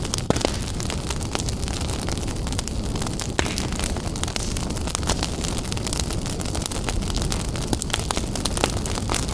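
Wood fire burning in a fireplace, with frequent sharp crackles over a steady low rumble of flames.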